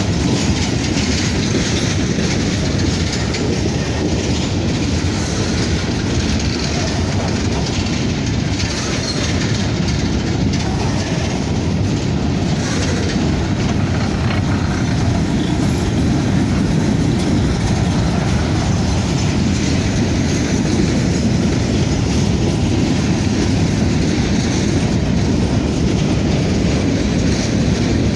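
Loaded covered hopper cars of a grain train rolling past close by: a steady, loud rumble of wheels on rail with a running clickety-clack.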